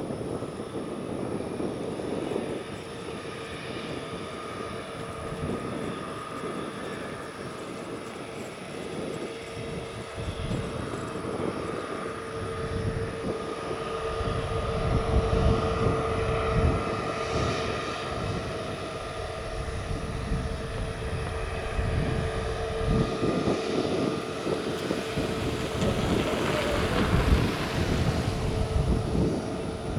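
Jet airliner engines running with a steady whine over a low rumble, the rumble growing louder through the second half.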